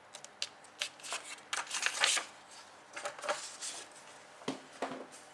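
Scratching strokes and light taps of writing on a surface, in short bursts, loudest about two seconds in, with a few sharper taps near the end.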